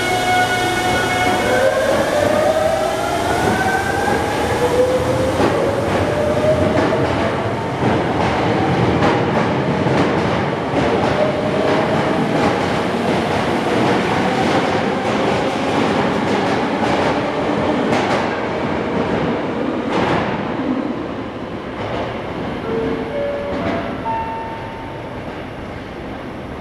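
Hankyu electric commuter train pulling out of the platform: the motors whine in tones that rise in pitch as it picks up speed, over a rumble with a run of clicks from the wheels on the rails, slowly fading. Near the end come a few short stepped tones.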